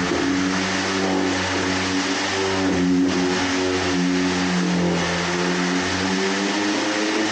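Electric power sander running on the bare wood of an old cupboard, its motor pitch dipping and recovering every second or so as it is pressed against the wood and moved, over a steady hiss of sanding.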